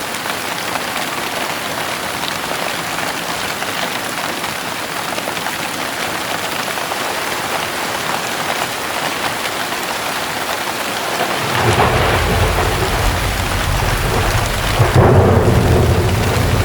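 Heavy rain pouring steadily. About two-thirds of the way in a deep thunder rumble sets in, growing louder near the end.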